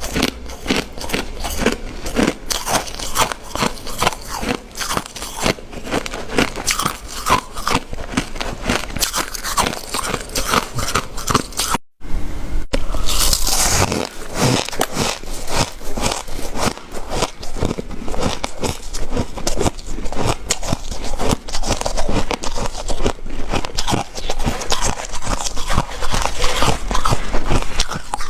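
Close-up ice eating: rapid, dense crunching of ice being bitten and chewed, with a brief cut about twelve seconds in before the crunching resumes.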